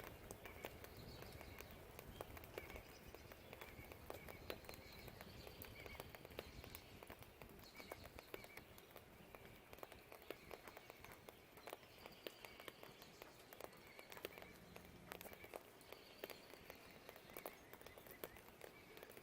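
Faint rain with scattered drops tapping irregularly, and birds chirping short, repeated calls in the background.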